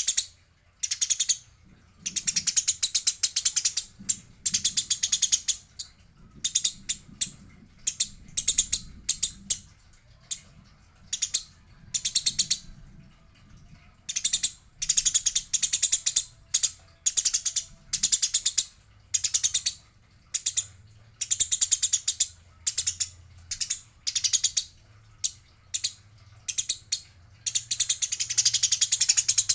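Eurasian tree sparrows chattering: bursts of fast, harsh, rattling notes, each a second or so long, with short pauses between them.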